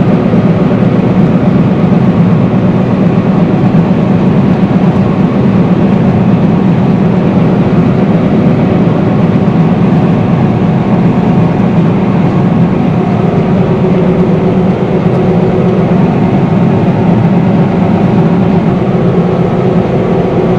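Combine harvester running steadily while cutting rice: a loud, even drone of engine and machinery that holds unchanged throughout.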